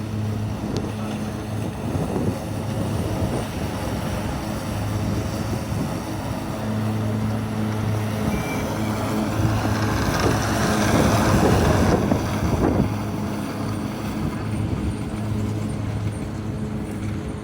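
Battery-powered Cub Cadet XT2 ride-on lawn tractor running: a low electric hum that comes and goes, under rushing noise that swells about ten seconds in, with wind on the microphone.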